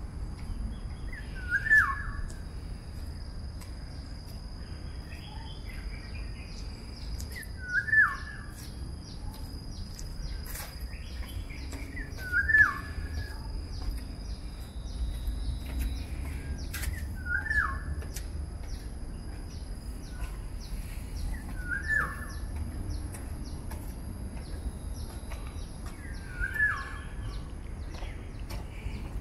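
A bird repeating a single short call that drops in pitch, six times at intervals of about four to five seconds. Under it are a faint steady high-pitched whine and a low rumble.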